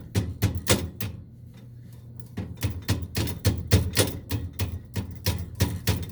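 A quick run of sharp clicks and taps, about three or four a second, with a pause of about a second near the start, over a low steady hum: small parts being handled and fitted on a boiler's pilot and thermocouple assembly.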